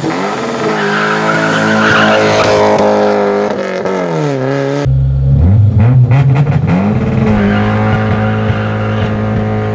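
Peugeot 306 Rallye's 1.8 16-valve four-cylinder engine at full throttle on an acceleration run. The revs climb, dip briefly at a gear change about four seconds in, and climb again. After a sudden cut it is heard from inside the cabin, brought up to launch revs and held there as the car pulls away.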